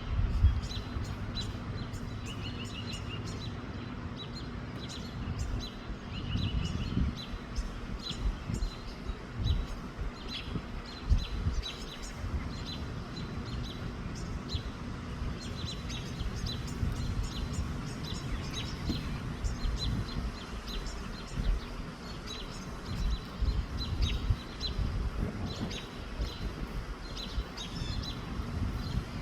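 Small birds chirping over and over in short high notes, with a few quick trills in the first several seconds. Wind buffets the microphone in uneven low gusts underneath.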